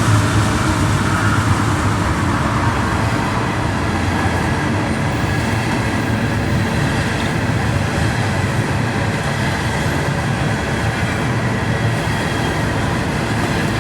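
A train passing close by on the railway tracks, a steady, continuous rumble of rolling wheels on rail.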